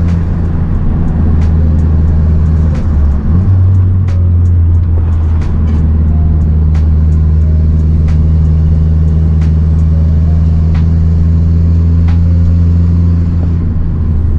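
Turbocharged Mazdaspeed 3 four-cylinder, with aftermarket intake and cat-back exhaust, pulling steadily under load at fairly constant revs. The engine note shifts briefly about three seconds in.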